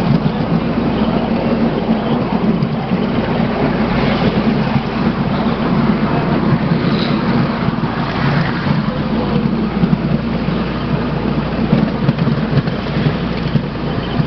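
Steady rumble and rattle of a miniature railway train running along the track, heard from a riding passenger car.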